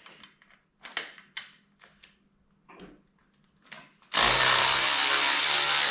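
A few light clinks of hand tools, then an impact wrench running in one steady burst of just under two seconds near the end, undoing the bolt of the engine's crankshaft pulley.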